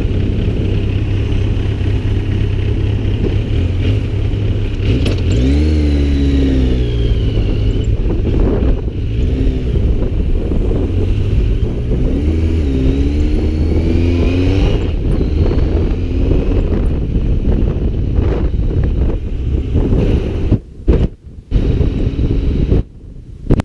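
Motorcycle engine rising in pitch as it accelerates, then dropping back, twice, under heavy wind rumble on the microphone while riding. The sound cuts out briefly a few times near the end.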